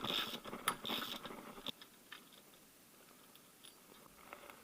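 Crunching, scraping metal sounds with a few sharp clicks as the left-hand-threaded bolt of a drive-belt tensioner pulley held in a vise is undone; they stop before two seconds in.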